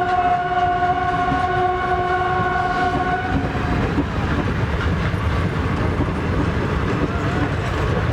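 Train horn sounding one long, steady chord that stops about three and a half seconds in, over the rumbling noise of a passing train.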